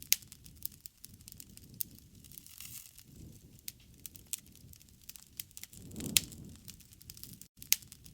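Wood campfire crackling, with irregular sharp pops and snaps and a louder low swell of sound about six seconds in.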